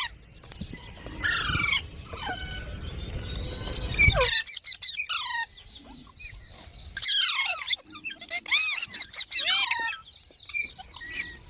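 Indian ringneck parakeet giving several bursts of shrill calls and chattering, each call arching and falling in pitch. A low rumbling noise runs under the calls for about the first four seconds.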